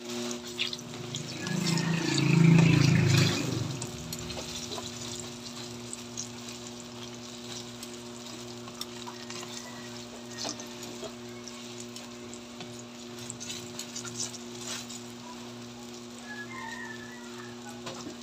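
Sliced eggplant deep-frying in hot oil in a pan, a steady sizzle with metal tongs now and then clicking against the pan. A louder low rumbling sound swells up about two seconds in and fades a second or so later, over a steady low hum.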